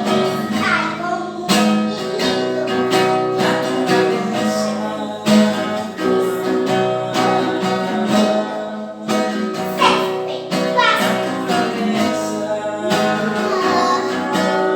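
Acoustic guitar improvising, with strummed and plucked chords ringing on.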